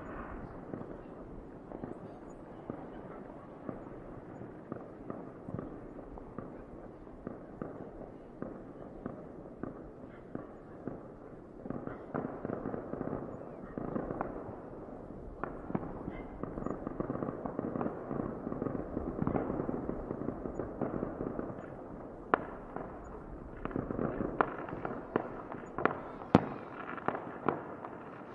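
Fireworks going off: a continuous crackle of many overlapping bangs and pops, busier from about halfway through, with a few louder sharp reports near the end.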